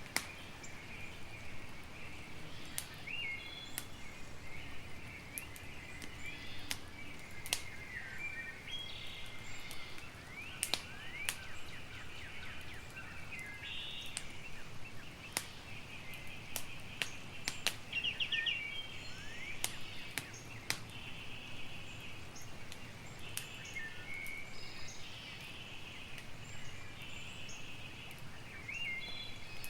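Campfire crackling, with sharp pops scattered irregularly, over a steady chorus of high, repeated chirping in the background.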